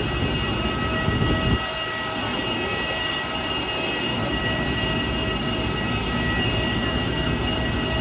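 Steady mechanical running noise with several high, steady whining tones over it; a heavier low rumble drops away about one and a half seconds in.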